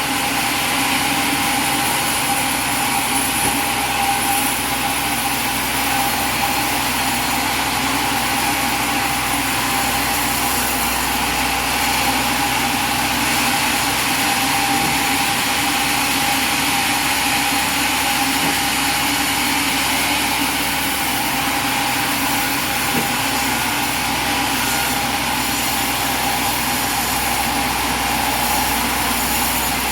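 Engine of a light portable sawmill running steadily.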